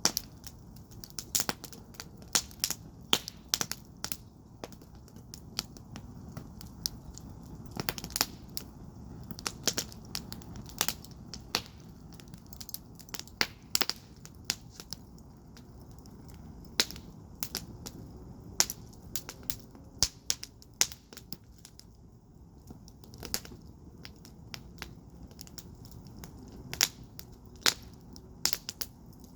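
Wood fire burning in a firepit, crackling with irregular sharp pops and snaps over a low steady rumble of the flames. The pops come in bunches, with a few quieter stretches between.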